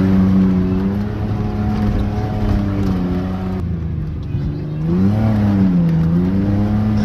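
Beater Ford Ranger pickup's engine being driven hard off-road, its exhaust partly removed and leaking, so it runs loud and raspy. The revs hold high, drop about four seconds in, then climb and fall again.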